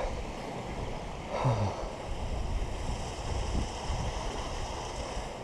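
Steady wind noise buffeting the microphone, with a short, low, falling grunt from the climber about one and a half seconds in.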